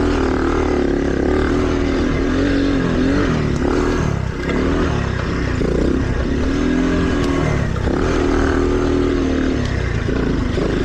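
Small mini dirt bike engine being ridden along a trail, its pitch rising and falling every second or two as the throttle is opened and closed.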